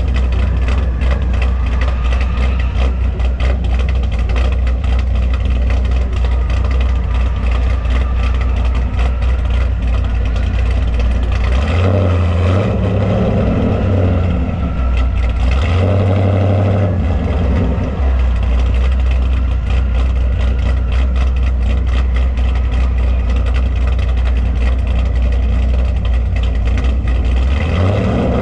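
Car engine running with a deep, steady low rumble, its pitch shifting briefly twice near the middle.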